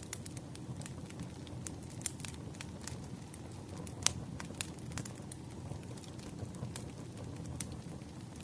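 Campfire burning: a steady low rumble of flames with irregular sharp crackles and pops, the loudest pop about four seconds in.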